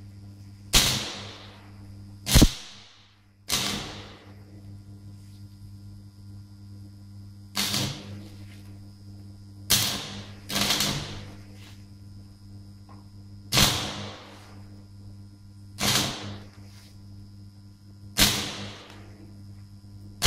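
Homemade arc welder built from three microwave-oven transformers: the arc strikes and crackles in short bursts of about half a second to a second, nine times, over the transformers' steady hum.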